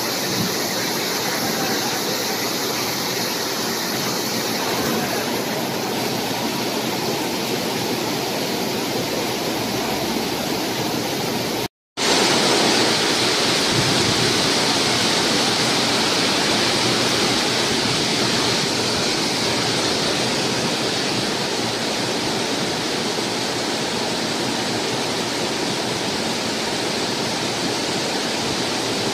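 Heavy rain pouring down onto a flooded paved lot as a loud, steady hiss. It breaks off for an instant about twelve seconds in and comes back a little louder.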